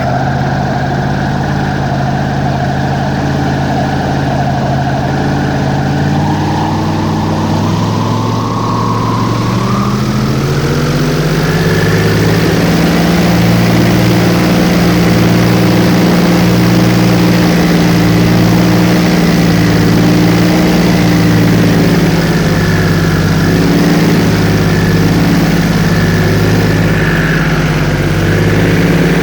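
Airboat engine and propeller running loud. It revs up about ten seconds in, then holds a steady higher speed.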